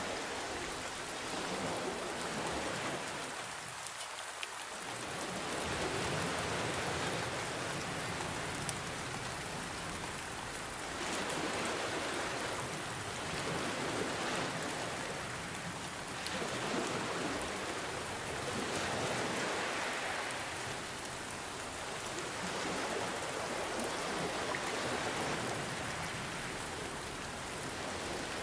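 Steady rain hiss mixed with ocean waves, which swell and ebb every few seconds.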